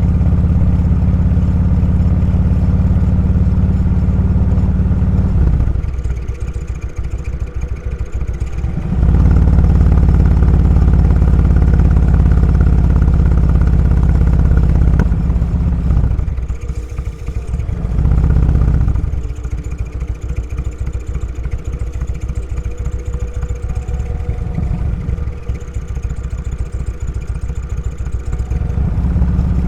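Motorcycle engine running under way, loud under throttle and dropping off as the throttle is closed. It eases off about six seconds in, picks up strongly again, dips twice after the midpoint, and runs softer for a long stretch before opening up again near the end.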